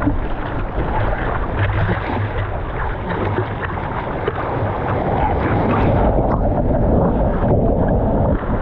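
Loud, steady rush of surf water and wind buffeting the microphone, with a heavy low rumble.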